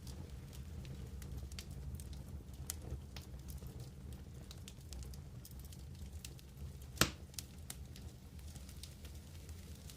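Wood campfire crackling, with scattered small pops and one loud sharp pop about seven seconds in, over a low steady rumble.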